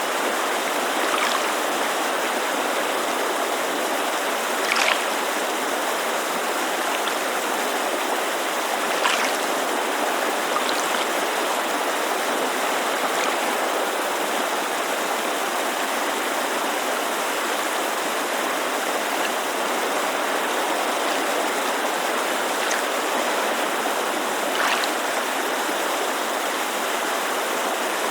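Steady rushing of a mountain creek, a dense even water noise, with a few brief splashes standing out now and then.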